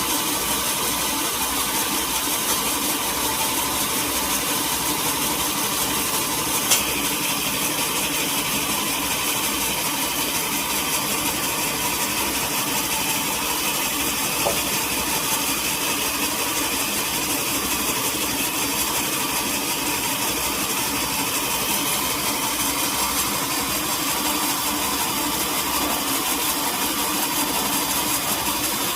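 Sawmill machinery running steadily, an engine-driven saw with an even low pulse, and one sharp knock about a quarter of the way in.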